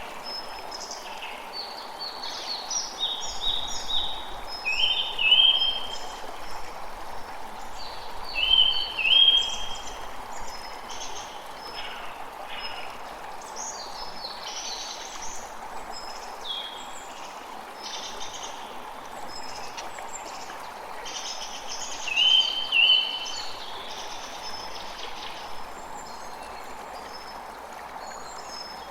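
A stream running steadily while several birds chirp and call over it. The loudest is a short double call, heard three times.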